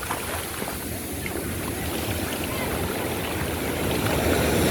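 Surf washing on the shore, a steady rushing wash with low wind rumble on the microphone, swelling louder near the end.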